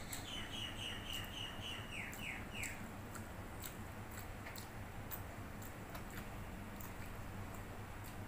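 A bird chirping a quick run of about a dozen high notes during the first three seconds, over a steady low hum and scattered faint clicks.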